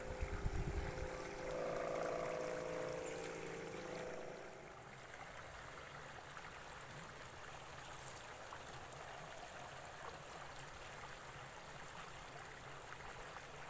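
Sanderan (the humming ribbon bow on a large Balinese kite) buzzing in the wind: a wavering hum that swells about a second and a half in and fades away after about four seconds. Wind rumbles on the microphone at the start, and a steady outdoor hiss carries on after the hum.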